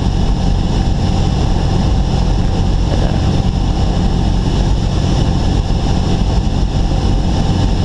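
Cessna 172's engine at idle together with the rush of air past the airframe, heard inside the cockpit as a steady low drone during a power-off approach.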